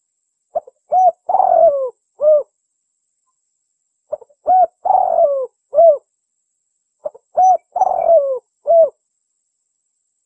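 Spotted dove cooing: three phrases about three seconds apart. Each phrase is a short note, a coo, a longer rough coo falling in pitch, then a final coo.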